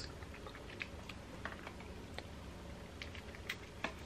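Close-up eating noises: a person chewing a soft donut, with scattered small wet mouth clicks and smacks. There is a sharper click at the start and another near the end.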